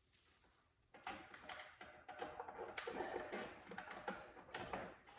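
Irregular light clicks and knocks of parts and tools being handled, starting about a second in.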